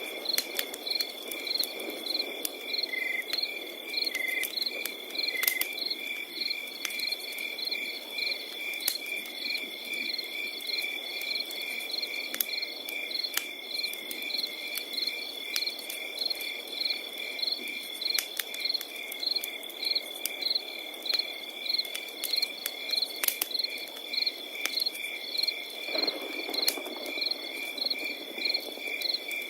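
Crickets chirping in a steady, even rhythm over a continuous high trill, with scattered sharp crackles from a fire.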